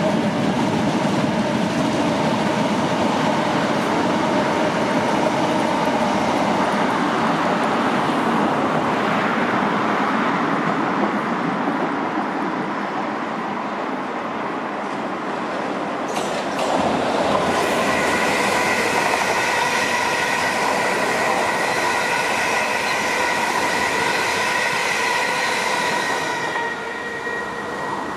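South Western Railway electric multiple units, a Class 455 and a Class 450 Desiro, running past on adjacent lines with a steady rumble of wheels on rail. In the second half several steady high-pitched tones ring out over the rumble, typical of wheel squeal, and cut off near the end.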